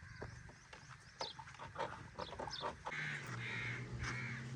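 Birds calling outdoors: short chirps and clicks, then from about three seconds in a run of harsh crow caws repeating about twice a second, over a low steady hum.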